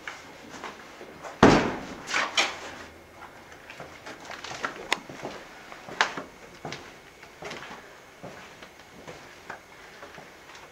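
A loud thump about a second and a half in, then a couple of softer knocks and scattered sharp clicks.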